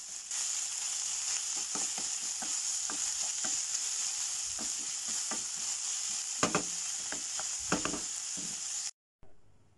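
Ground beef and vegetables sizzling in hot oil in a frying pan as they are stirred, with repeated knocks and scrapes of the stirring utensil against the pan. The sizzle cuts off abruptly near the end.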